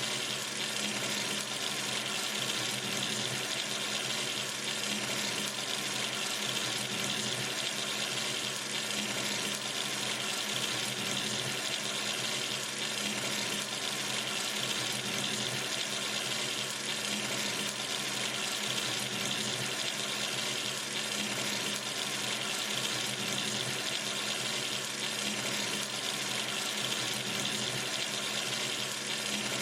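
Kitchen or bathroom sink tap running steadily, water streaming into the basin in an even, unchanging rush.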